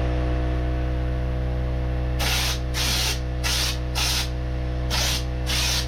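Spray gun applying epoxy primer in short hissing bursts, about six of them starting a couple of seconds in, over a steady hum.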